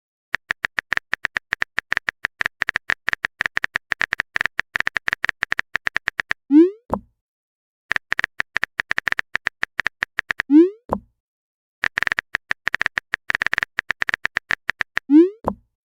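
Chat-app sound effects: runs of rapid typing clicks, each run ending in a short rising 'bloop' as a message is sent. The pattern repeats three times, with the bloops about 6.5, 10.5 and 15 seconds in.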